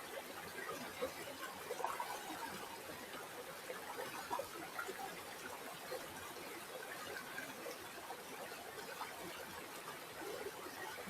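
River water flowing and trickling: a steady wash dotted with many small gurgles.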